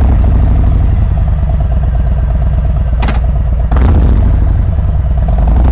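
Motorcycle engine running loudly with a deep, fast-pulsing rumble, with a slight rise in revs about four seconds in.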